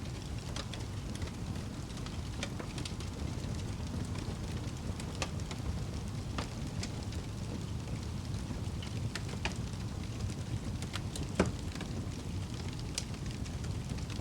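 Wood fire in a fireplace crackling: a steady low rush of flames with scattered sharp pops, one louder pop about eleven seconds in.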